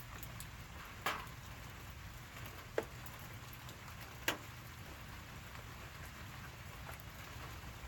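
Light rain pattering steadily, with three sharp ticks about one, three and four seconds in.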